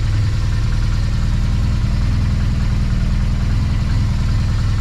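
BMW R1200GS boxer-twin engine idling steadily.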